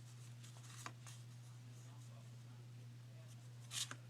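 Faint handling of trading cards: two brief papery swishes, a soft one about a second in and a louder one near the end, over a steady low electrical hum.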